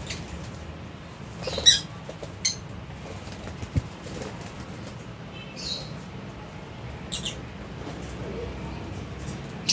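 Lovebirds giving short, high chirps every second or two, the loudest about two seconds in, over a low steady background hum. A brief soft knock comes a little before the halfway point.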